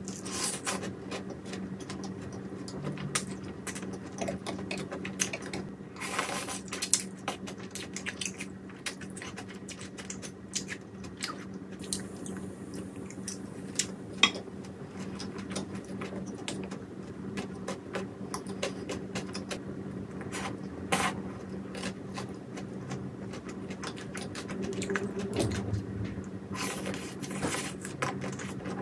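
Close-up eating sounds: boneless fried chicken being chewed, with frequent crisp crunches and clicks, over a steady low hum.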